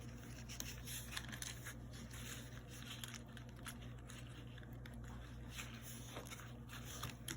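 Faint, scattered clicks and rustles of thin craft wire being twisted by hand, over a steady low hum.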